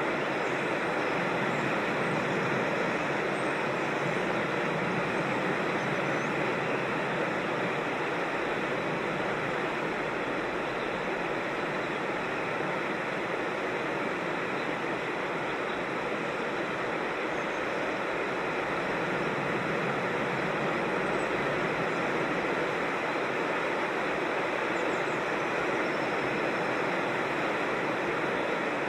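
Steady, even rush of a creek's running water, with faint bird chirps here and there.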